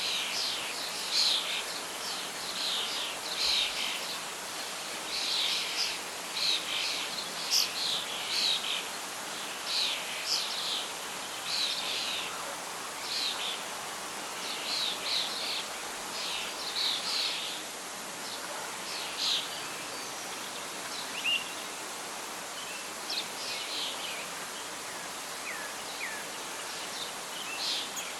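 Birdsong: many short, quick chirps over a steady rustling hiss of wind and leaves. The chirps come thickly at first and thin out after about two-thirds of the way.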